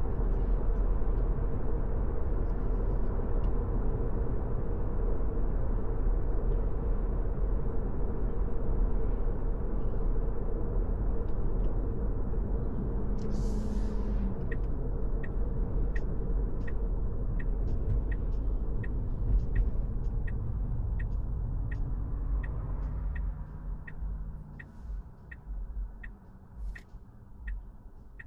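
Car cabin road and engine rumble while driving. About halfway through, the turn-signal indicator starts ticking steadily, roughly three clicks every two seconds. Near the end the rumble drops away as the car slows.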